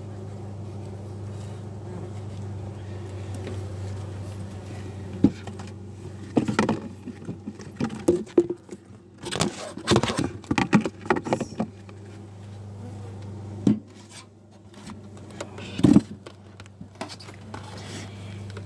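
Wooden beehive parts being handled as a nuc box is closed up and its lid fitted: a run of knocks, scrapes and rubs in the middle, then two sharp knocks, over a steady low hum.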